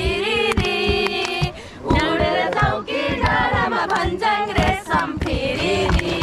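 A group of people singing a Nepali folk song together without instruments, with frequent sharp knocks among the voices.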